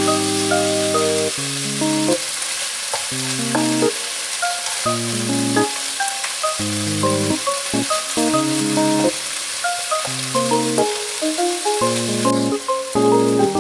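Diced chicken breast sizzling as it fries in oil in a nonstick wok, stirred with a wooden spatula. Background music of held chords plays over the frying.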